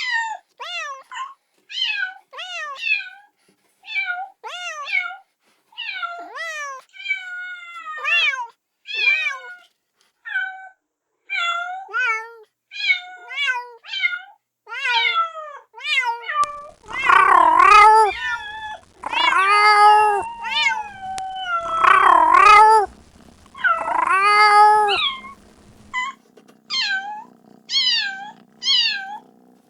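Kitten meowing over and over, crying for its mother in short high calls about two a second. About midway come four longer, louder, lower meows, and then the short calls resume.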